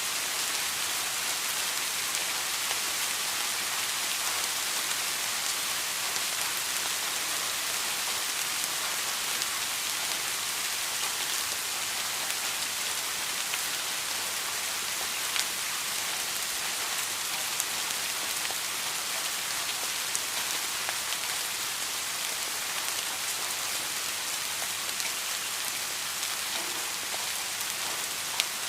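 Steady rain, an even hiss of falling drops, with a few sharper individual drop ticks scattered through it.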